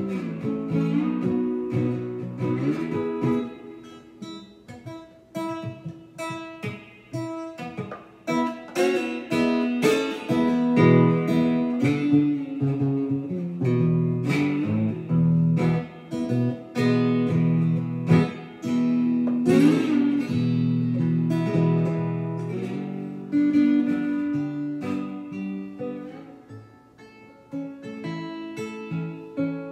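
Ovation resonator guitar played slide-style, a blues in E: picked notes and strummed chords ring out, with some notes sliding in pitch.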